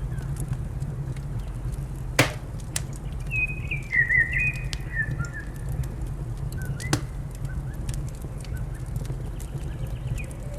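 Wood fire crackling over a steady low rumble, with sharp pops, the loudest about two seconds in. Small birds chirp, most busily about three to five seconds in, and a dove begins cooing near the end.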